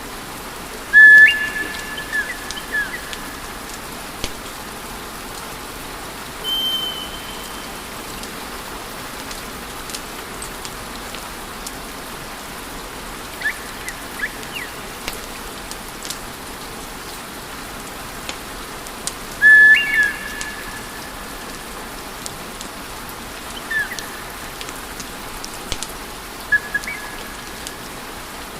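Wood fire crackling, with a steady hiss and scattered small pops. Over it come a few short, steady, high whistling tones, the loudest about a second in and again two-thirds of the way through.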